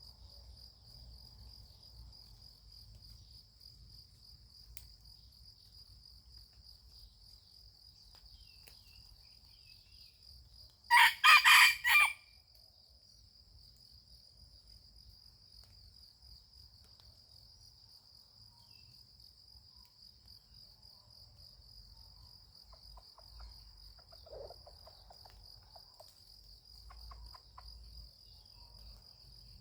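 A junglefowl rooster crows once, a short loud crow of about a second near the middle, over a steady high-pitched insect trill.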